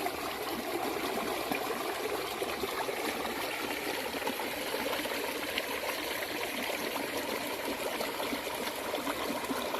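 Rainwater runoff flowing steadily with a continuous rushing, splashing sound.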